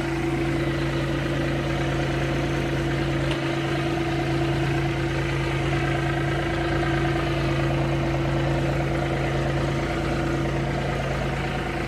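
Engine of a snow-plowing machine idling steadily, a constant low hum that does not change in pitch.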